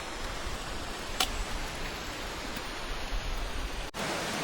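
Steady hiss of rain falling, with a single sharp tap about a second in. The sound breaks off for an instant near the end.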